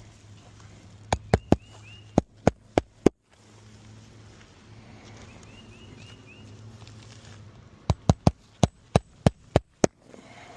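Hammer blows on an asphalt shingle roof: two runs of about seven quick sharp strikes, a few seconds apart.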